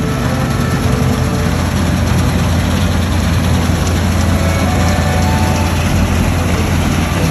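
New Holland TX66 combine harvester running steadily at work, a heavy, even engine drone with a constant mechanical hum and no changes in pace.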